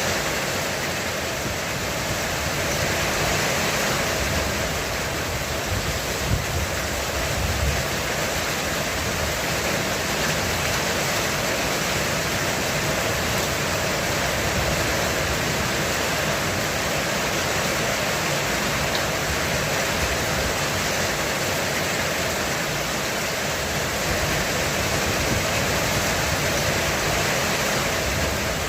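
Heavy rain falling steadily on a roof, an even rushing hiss with no letup.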